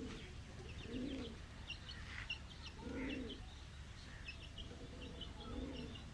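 Domestic pigeons cooing, a low coo about every two seconds, three in all, with small birds chirping in quick high notes over them.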